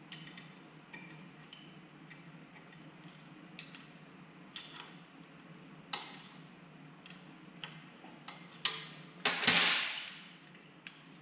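Light metallic clicks and taps of hand tools and bike parts, irregular and a couple a second, as the motorcycle's clutch cable is loosened and freed. Near the end comes one louder clatter lasting about a second.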